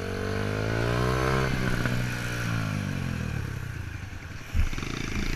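Motorcycle engine running, its pitch rising over the first second or so and then slowly falling. A single sharp thump sounds about four and a half seconds in.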